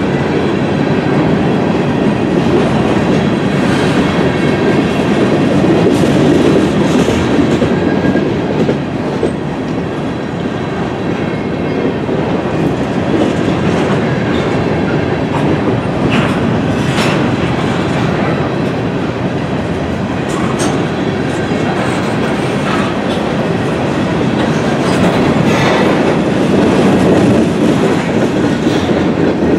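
A freight train's covered hopper cars rolling past close by: a steady loud rumble of steel wheels on rail, with a few brief sharp high clicks or squeaks from the wheels and rail in the second half.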